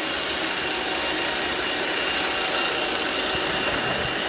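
iRobot robot vacuum running steadily as it cleans the floor, a continuous whirr with a faint high-pitched whine.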